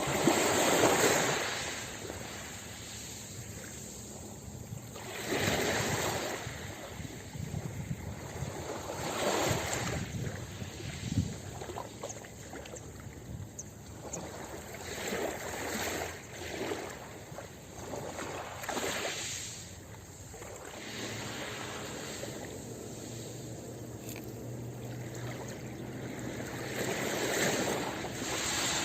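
Ocean waves breaking on a beach, the surf swelling and washing back in surges every few seconds, the loudest about a second in.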